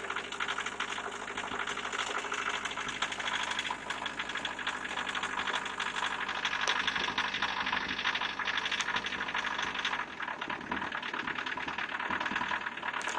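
1984 VW Jetta's 1.6-litre four-cylinder turbodiesel idling with a steady, fast diesel clatter shortly after a cold start, still warming up.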